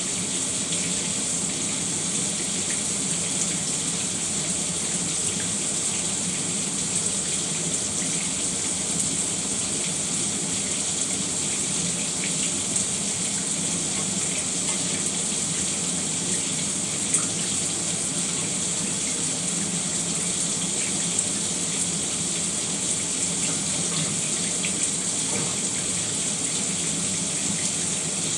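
Shower water running steadily, a continuous hiss of spray with small scattered droplet ticks.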